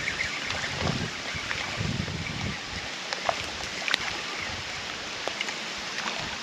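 Steady hiss of rain falling on the creek around the raft, with scattered small ticks of drops and a few soft low bumps in the first couple of seconds.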